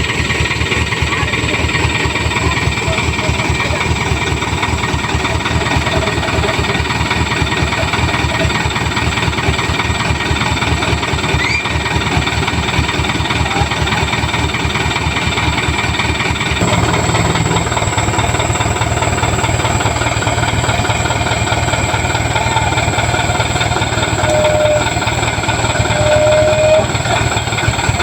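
Toyota Dyna dump truck's diesel engine running with a steady clatter; about two-thirds of the way through the engine note changes and deepens, as when it takes up load.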